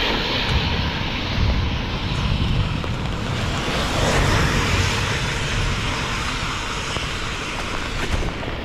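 Steady rushing noise with a low buffeting rumble: wind blowing on the camera's microphone while out in the rain.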